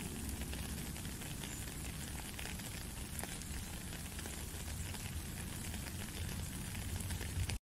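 Steady rain falling on a puddle and wet ground: a dense, even patter of many small drops.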